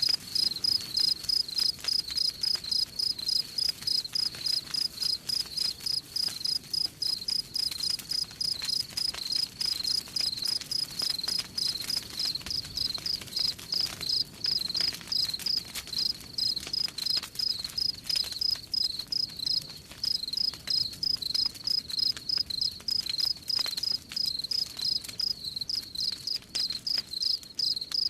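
Crickets chirping in a steady, evenly spaced rhythm, with the scattered crackle of a campfire beneath.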